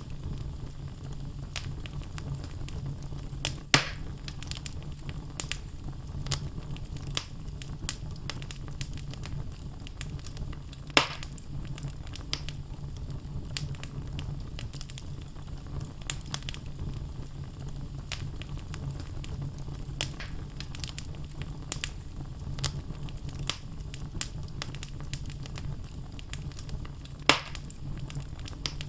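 Wood fire burning in a fireplace: a steady low rumble of flames with frequent small crackles from the logs and three sharper, louder pops spread through it.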